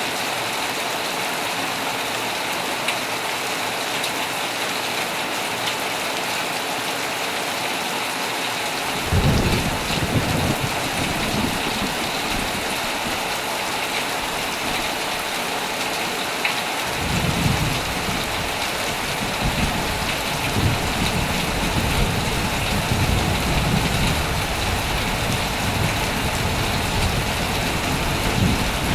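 Heavy rain falling steadily on a tent, with thunder: a low rumble rolls in about nine seconds in, and from a little past halfway thunder rumbles on and off to the end.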